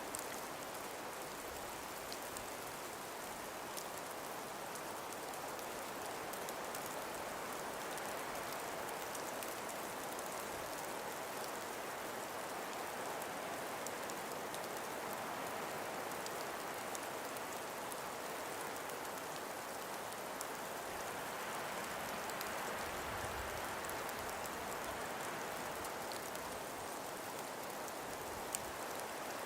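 Calm winter breeze blowing steadily as an even hiss, slowly swelling and easing, with faint scattered ticks.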